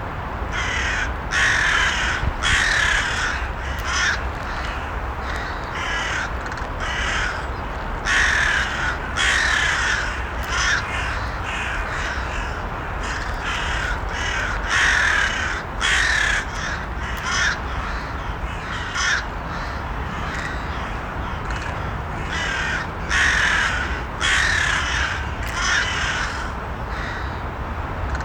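Several crows cawing, harsh calls coming again and again in short clusters over a steady low rumble.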